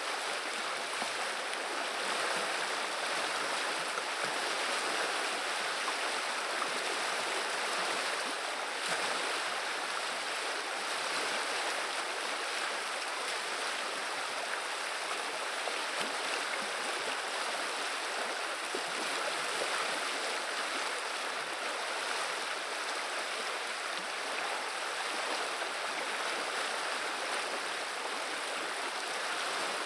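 River water running and babbling in a steady, unbroken rush.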